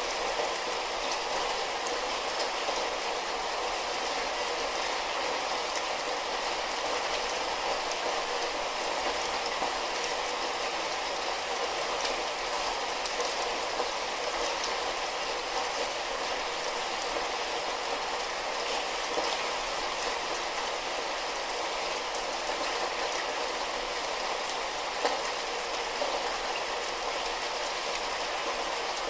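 Light rain falling as a steady hiss, with scattered single drops ticking now and then.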